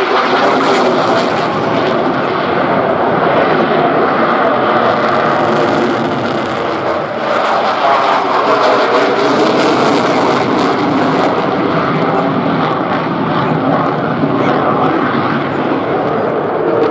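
Loud, steady jet noise from a Eurofighter Typhoon's twin EJ200 turbofan engines as it flies its display, easing slightly midway and swelling again.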